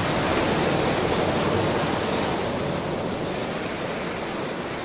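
Ocean surf: a continuous wash of breaking waves, easing slightly toward the end.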